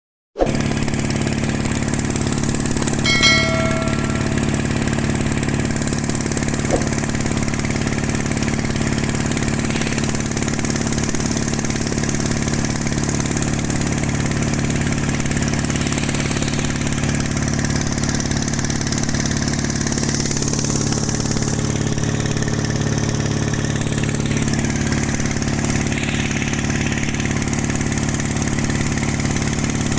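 The single-cylinder 1115 diesel engine of a pompong, a small wooden cargo motorboat, running steadily. A brief ringing tone sounds about three seconds in.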